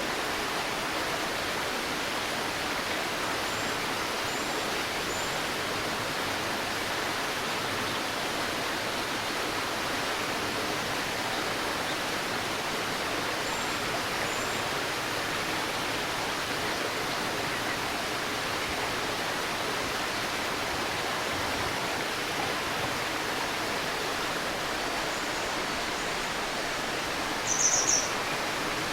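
Steady rushing and babbling of a shallow river. Faint high bird chirps come a few times, and a short, louder bird call of several quick notes sounds near the end.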